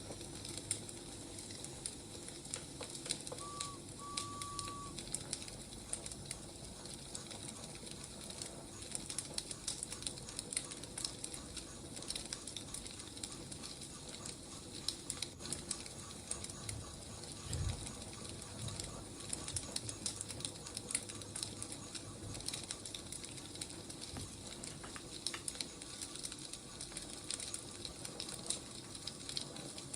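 Wood fire crackling: frequent sharp pops and snaps over a soft steady hiss. Two short whistle-like tones sound about four seconds in, and there is a low thud a little past halfway.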